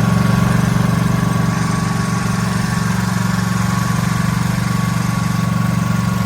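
HG Power 10-inch shutter exhaust fan running: a steady low electric-motor hum with a rapid flutter and a faint, constant high whine.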